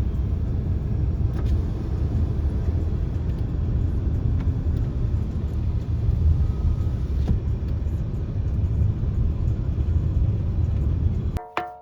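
Steady low rumble, like a car's running and road noise. Just before the end it cuts off abruptly and a music track with wood-block percussion strokes begins.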